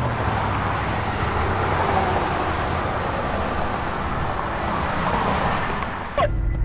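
Steady road traffic noise: an even wash of passing-vehicle noise over a low rumble. Shortly before the end it cuts abruptly to a louder sound.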